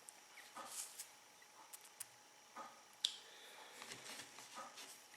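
Faint handling noises: soft rustles and a few light clicks, the sharpest about three seconds in.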